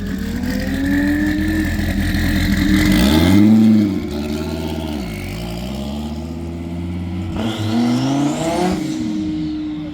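Twin-turbo Dodge Viper V10 revved while standing still. The engine note swings up to a loud peak about three and a half seconds in, falls back, and climbs again in a second rev near the end.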